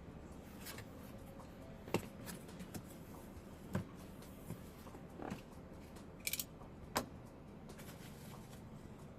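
Scattered clicks, knocks and a brief scrape of cardboard packaging being handled while a boxed cultivator is unpacked.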